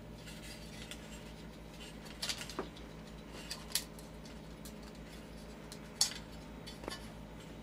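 Plastic fluorescent tombstone lamp holders being slid out of a sheet-metal fixture end bracket: a few scattered clicks and clacks of plastic against metal, the sharpest about six seconds in.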